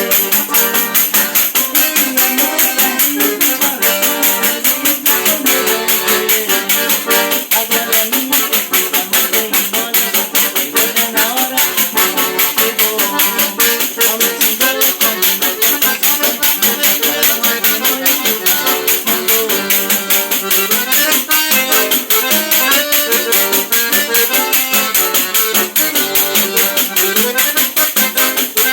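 Button or piano accordion playing a melody over a pandeiro, the Brazilian jingled frame drum, which keeps a quick, steady jingling beat.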